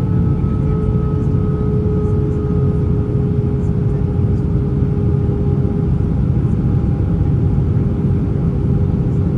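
Airbus A320 airliner's engines and airflow: a steady, loud low rumble with several steady humming tones above it, which drift slightly lower in pitch over the first few seconds.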